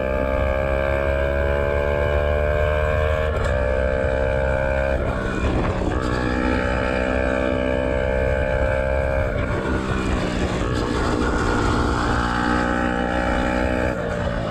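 Yamaha YZF-R125's 125 cc single-cylinder four-stroke engine pulling under throttle with its exhaust's dB killer removed, the pitch climbing through each gear and breaking off at upshifts about three or four seconds apart. Low wind rumble runs underneath.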